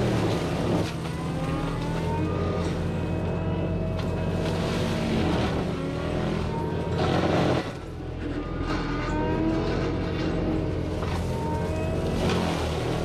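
Cat 259D compact track loader's diesel engine running hard with its forestry mulcher head working, the pitch rising and falling as the load changes. A brief surge about seven seconds in is followed by a short drop.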